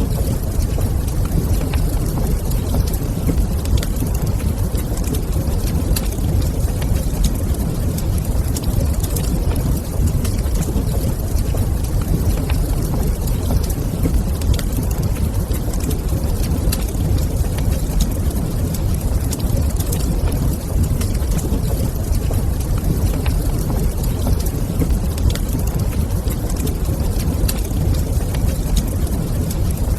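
Fireplace fire crackling with scattered sharp pops and ticks over a steady low rumble.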